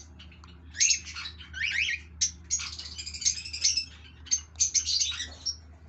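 Cockatiels chirping and squawking in a rapid jumble of short, high calls, some sliding upward in pitch.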